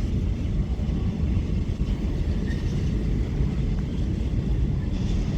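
A long freight train's wagons rolling steadily past, a continuous low rumble on the track.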